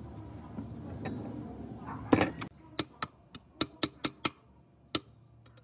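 Metal parts clinking: a loud short clatter about two seconds in, then about eight sharp, ringing metallic taps in quick succession.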